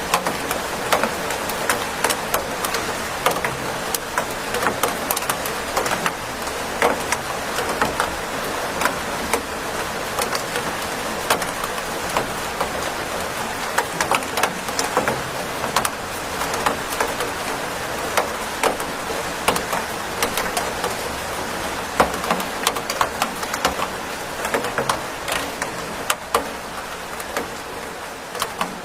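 Steady rain falling, with many individual drops tapping sharply and close against a surface over the even hiss of the downpour.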